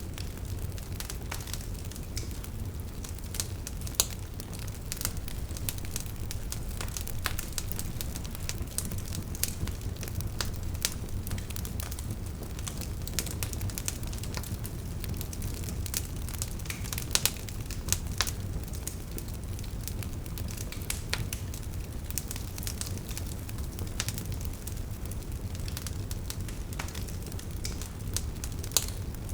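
Burning wood logs crackling and popping irregularly over a steady low rumble of the flames, with a few louder pops standing out.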